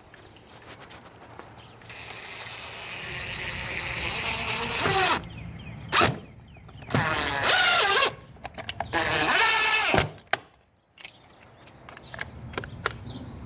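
Power drill run in several bursts, the motor winding down in pitch as each run ends: one longer run building over a few seconds, then three short, louder runs.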